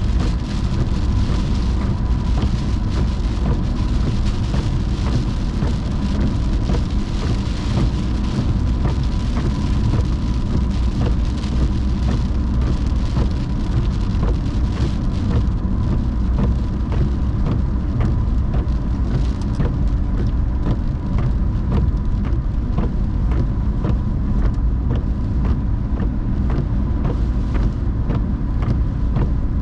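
Car driving through rain: a steady low road and engine rumble with raindrops ticking on the car and a hiss of wet-road spray that thins out about halfway through. A faint steady whine runs underneath.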